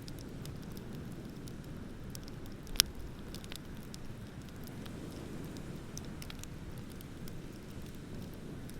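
Wood bonfire crackling, with scattered small snaps and one sharp, loud pop about three seconds in, over a steady low rush of ocean surf.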